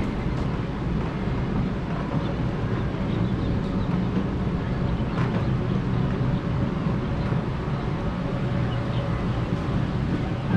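Steady low rumbling noise with no clear events, the kind of rumble that wind or a running machine gives.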